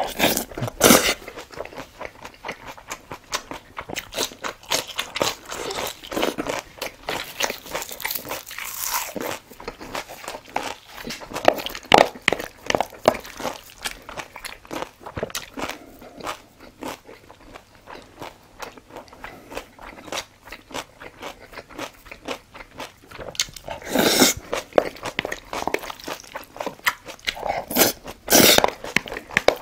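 Close-miked eating: a person chewing and crunching food, with wet mouth noises and many short, irregular crunches and clicks.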